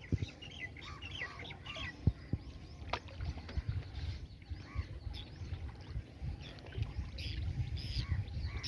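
Birds calling in short chirping bursts, a cluster in the first second and a half and another near the end, over a low steady rumble, with two sharp knocks about two and three seconds in.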